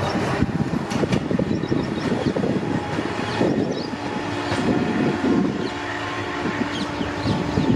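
Passenger train coaches rolling past on the track: steady wheel-on-rail rumble with frequent irregular knocks from the wheels over the rails, and a steady low hum joining about halfway through. The sound drops away suddenly at the end.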